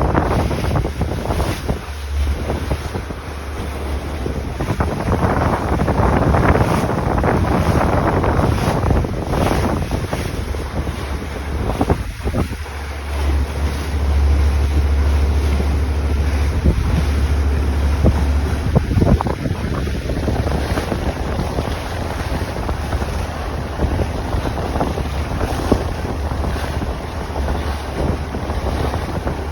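Wind buffeting the microphone aboard a small sailboat sailing upwind, with water rushing along the hull. The low wind rumble swells in gusts, strongest a couple of seconds in and again in the middle.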